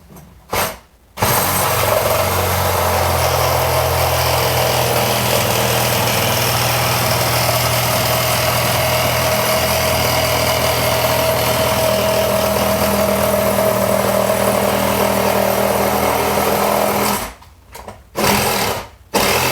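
Sawzall reciprocating saw running steadily, cutting through a door for about sixteen seconds before stopping. Two short bursts follow near the end.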